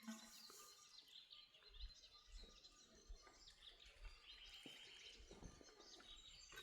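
Faint birds chirping, many short scattered calls with a brief held high note about two-thirds of the way through.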